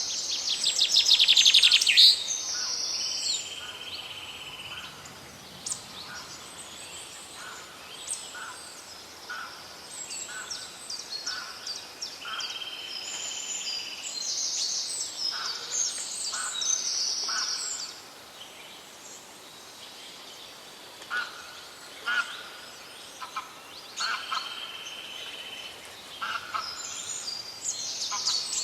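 Forest birdsong from several birds: a loud, rapid trill that swells over the first two seconds and stops sharply, a held whistled note that comes three times, and scattered high chirps throughout.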